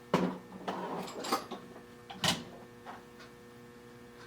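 Small metal slitting saws and tools being handled and set down: three sharp clinks and knocks about a second apart, with a short rattle between the first two.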